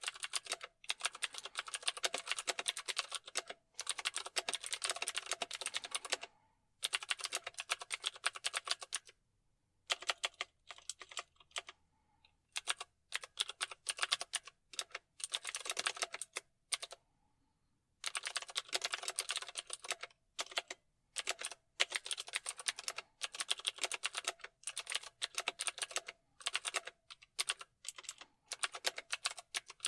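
Computer keyboard being typed on: rapid runs of key clicks in bursts lasting a few seconds, broken by short pauses, with slower, sparser keystrokes in the middle.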